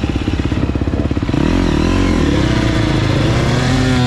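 Husqvarna TC 85 two-stroke dirt bike engine running at low revs with an even pulse. About a second and a half in, it revs up and down several times, climbing highest just before the end, then drops off.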